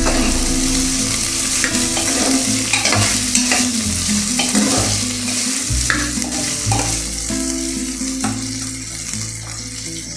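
Food sizzling in a hot pan while being stirred, with repeated scrapes and knocks of the spoon or spatula. The sizzle dies down in the last few seconds.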